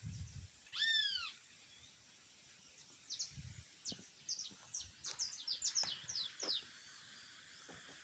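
Birds calling: one loud, arched call about a second in, then a quick run of high chirps, each sliding down in pitch, from about three to nearly seven seconds. A low bump of handling noise comes between them.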